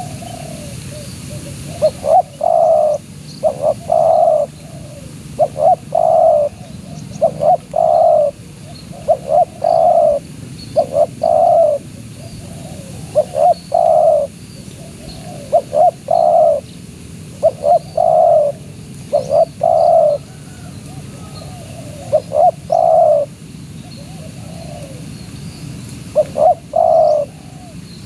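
Spotted dove (tekukur) cooing over and over, each phrase a couple of short notes followed by a longer coo, repeated roughly every two seconds. Faint chirps of small birds sound above it.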